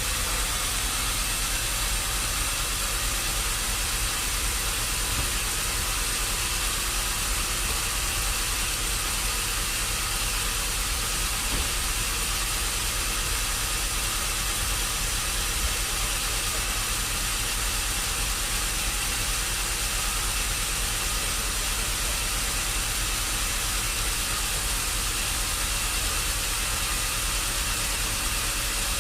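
Steady machinery noise: an unchanging hiss over a low rumble, with no clear strokes or changes in pitch.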